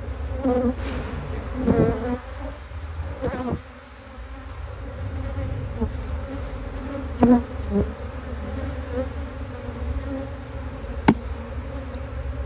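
Honeybee swarm buzzing, with single bees flying close past the microphone several times, their buzz swelling and fading. One sharp tap about eleven seconds in.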